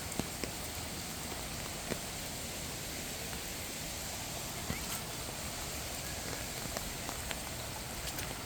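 Steady hiss of rain falling on a flooded yard, with a few scattered sharp ticks of drops hitting hard surfaces.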